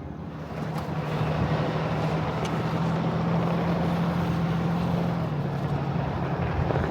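Ram tow truck's Cummins diesel engine pulling steadily as it drives up a trail. The engine note grows louder about half a second in and drops slightly in pitch after about five seconds.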